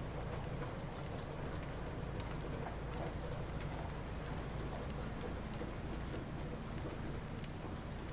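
Light rain falling steadily, a soft even hiss with scattered small drop ticks.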